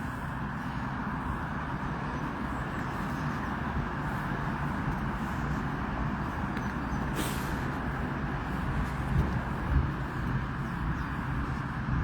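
Steady hum of road traffic, with a brief rustle about seven seconds in.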